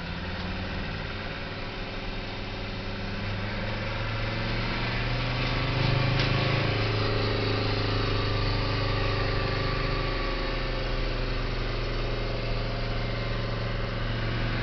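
Mercedes-Benz turbo diesel engine running with the hood off while the vehicle cruises, with propane fed in at the push of a button. The engine note builds over the first few seconds and then holds steady, easing briefly about ten seconds in.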